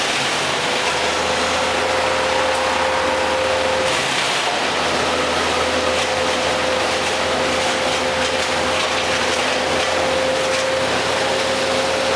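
Tree-work machinery running steadily, a constant mechanical drone with a held hum that drops out briefly about four seconds in.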